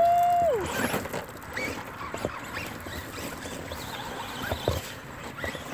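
Traxxas Rustler VXL RC cars running through wet mud and gravel: short whines from the brushless motors under throttle and a scattered crackle and patter from the tyres churning mud and throwing stones. The loudest part is a brief held whine in the first half second that drops in pitch as it stops.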